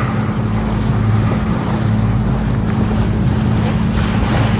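Canal tour boat's engine running steadily, a constant low hum with a hiss of wind and water over it.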